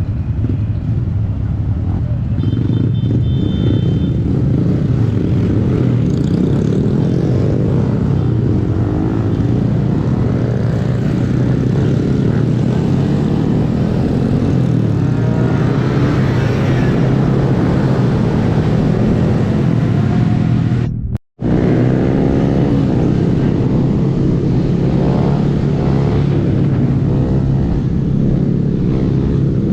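Honda 125 cc single-cylinder motorcycle being ridden, its engine pitch rising and falling several times, with rushing wind noise. The sound cuts out briefly about two-thirds of the way through.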